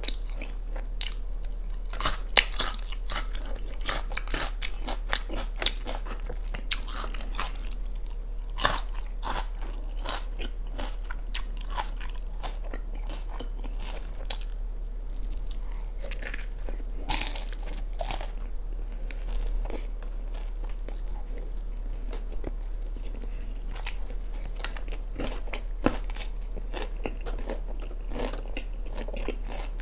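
Close-miked eating: bites and chewing of sauce-coated boneless fried chicken (yangnyeom chicken), with many short crisp crunches spread irregularly through the chewing. Near the end, crunching on pickled radish cubes. A steady low hum runs underneath.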